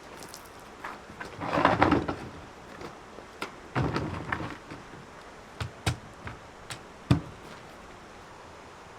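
Hard objects being handled: two short bursts of scraping and clattering, then a few separate sharp knocks, the last one the heaviest.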